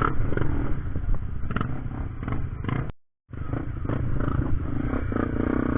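Motorcycle engine running while riding, with knocks and rattles over it. The sound cuts out completely for a moment about three seconds in, then picks up again.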